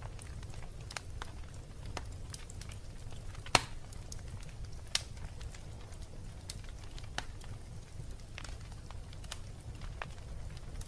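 Wood fire burning in a fireplace, crackling with scattered sharp pops over a steady low rumble of the flames; two louder pops come a few seconds in.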